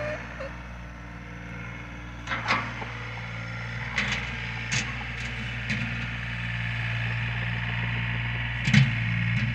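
Engine running steadily, with a few sharp knocks and clanks over it.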